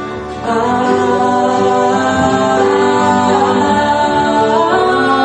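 Live pop band music: piano accompaniment with voices singing long held notes without words, swelling louder about half a second in.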